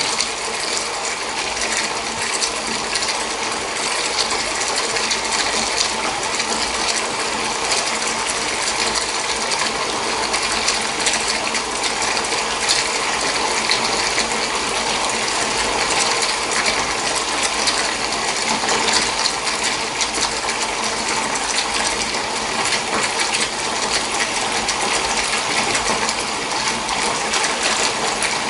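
Water running steadily into a bath, a constant splashing rush full of fine crackling droplets.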